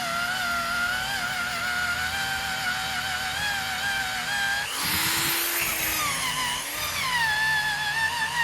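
Drill spinning a rubber eraser wheel against the truck's paint to strip emblem adhesive: a steady, slightly wavering whine, with a louder, harsher surge about five seconds in where the pitch drops under load. Background music plays along.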